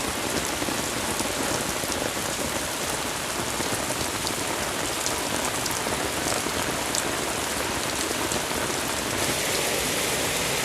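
Heavy, steady rain pouring down, a dense even hiss of rain on surfaces with scattered louder drops, driven by an approaching typhoon.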